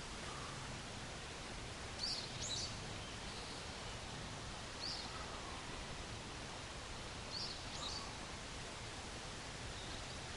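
Small bird giving short high chirps, a pair about two seconds in, one near five seconds and another pair near eight seconds, over a steady outdoor hiss.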